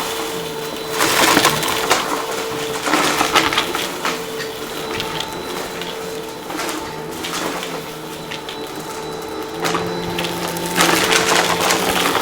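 Upright vacuum cleaner running with a steady motor hum while it sucks up crunchy debris, which rattles and crackles through it in bursts about every two seconds.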